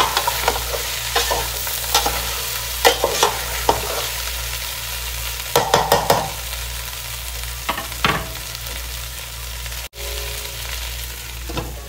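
Chopped okra sizzling as it fries in a metal pot while a spatula stirs it, with clusters of scrapes and clinks against the pot's sides. The stirring stops about eight seconds in, leaving only the sizzle.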